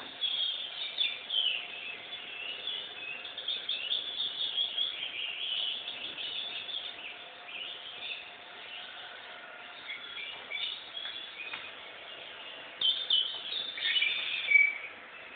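Birds chirping: a dense run of short, sliding calls for the first few seconds, thinner in the middle, and a louder burst of calls near the end.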